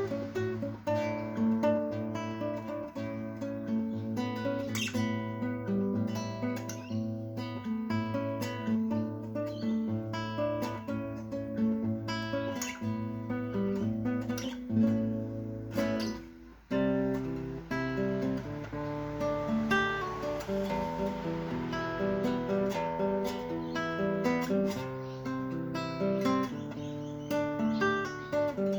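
Acoustic guitar music, plucked and strummed, with a brief drop about two-thirds of the way through before it carries on.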